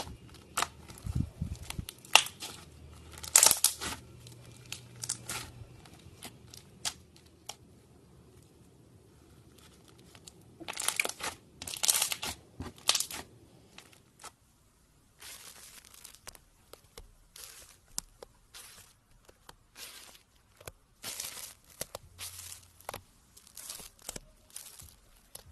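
Irregular close-up handling sounds of slime-making materials: crinkling, tearing noises and sharp clicks, with louder bursts about 3 seconds in and again around 11 to 13 seconds, and a brief lull shortly after.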